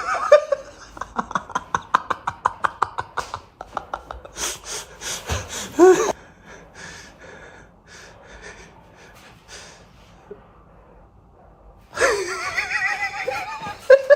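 A person's voice making gasps and quick breathy pulses, with a wavering pitched cry near the end.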